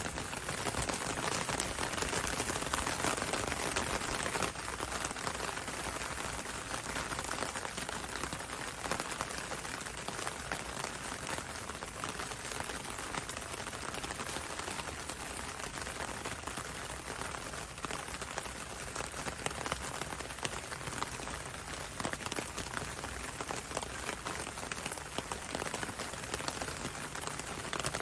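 Steady rain falling on a window and on a road, an even hiss full of separate drop hits, a little heavier for the first few seconds.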